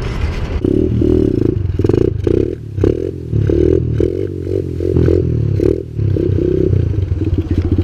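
Small single-cylinder pit bike engines running at low speed, the engine note swelling and dropping in uneven pulses, then settling into a steady fast pulse near the end.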